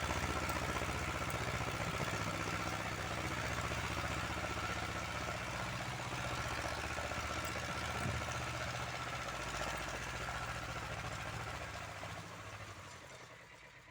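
Small single-cylinder engine of an Uralets walk-behind tractor running steadily, then dying away over the last couple of seconds.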